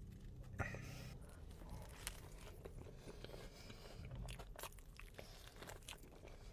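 Faint chewing and crunching of a person eating a burger, a scatter of small crisp clicks.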